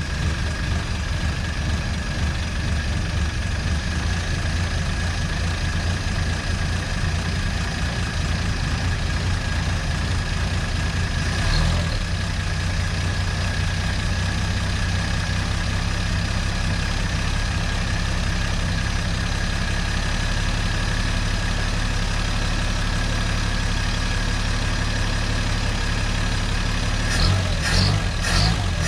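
1951 Studebaker Champion's flathead six idling steadily through a makeshift exhaust, its idle speed being set a little higher. There is a brief rise about twelve seconds in and a few uneven pulses near the end.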